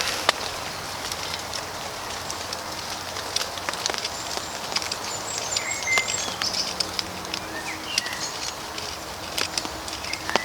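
Steady rain pattering with scattered drips, and a small bird chirping a few short notes in the middle and again near the end.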